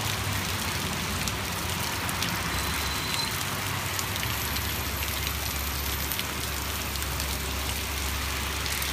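Hard rain falling steadily on a garden and roof, with the sharp ticks of single drops landing close by. A low rumble of passing road traffic grows stronger about four seconds in.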